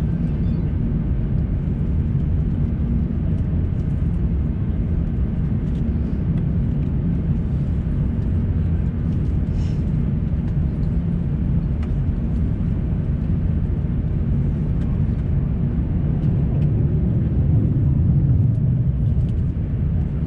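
Airbus A350-900 cabin noise: a steady low rumble of engines and airflow heard from inside the cabin, swelling slightly near the end.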